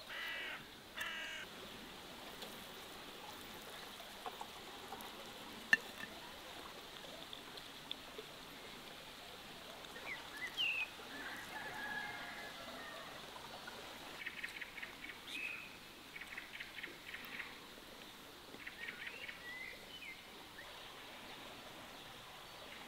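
Faint outdoor ambience with birds chirping and calling at intervals, in short clusters of calls. There is a single sharp click about six seconds in.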